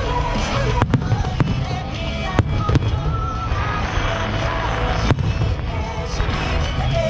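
Aerial fireworks display: a string of sharp cracking bangs over a continuous low rumble of shells bursting, with music playing alongside.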